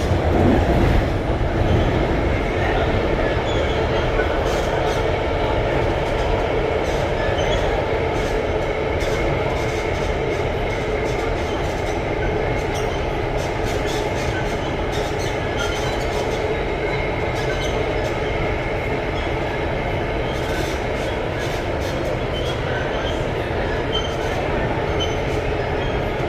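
Alstom Metropolis C751A metro train running, heard from inside the car: a steady rumble of wheels on rail with a faint high tone and scattered small clicks. It is a little louder in the first couple of seconds.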